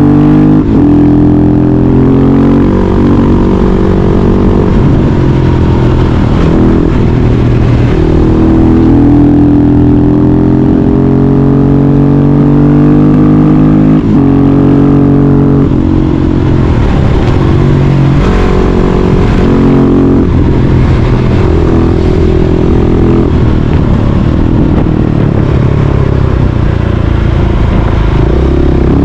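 Husqvarna 701 Supermoto's single-cylinder engine running loud through an aftermarket Yoshimura exhaust, its pitch climbing and falling again and again as it is revved and eased off.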